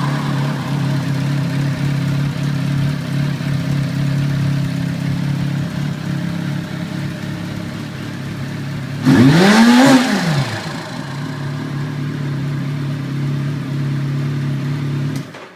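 Turbocharged Suzuki Hayabusa inline-four engine idling steadily. About nine seconds in it takes one quick throttle blip, rising and falling back to idle within about a second and a half. The sound cuts off just before the end.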